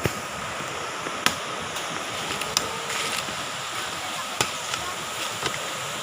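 Motorised brush cutter running steadily at cutting speed, with a series of sharp ticks as the cutting head strikes the grass.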